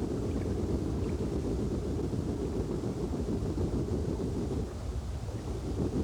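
Low-frequency rumbling noise played underwater to attract sharks, an artificial imitation of the sounds of a struggling or wounded fish. It runs steadily with a short dip about five seconds in.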